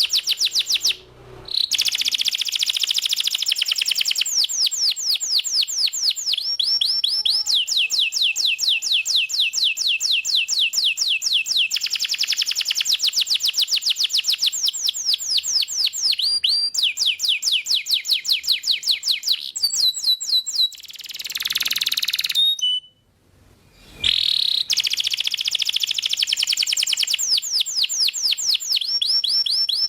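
Canary singing vigorously: long trills of rapid repeated high notes, each roll held for a few seconds before switching to another at a different pitch. The song breaks briefly about a second in and pauses for about a second near the three-quarter mark.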